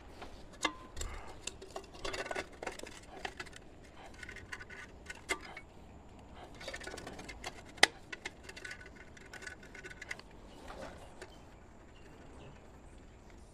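Tools and parts being handled during hands-on work on the motorcycle: scattered clicks and taps with two stretches of rustling and scraping, and one sharp click about eight seconds in.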